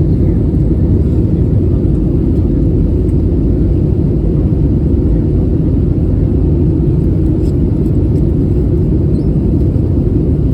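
Steady low rumble heard inside the cabin of an Airbus A320neo with Pratt & Whitney PW1100G geared turbofan engines.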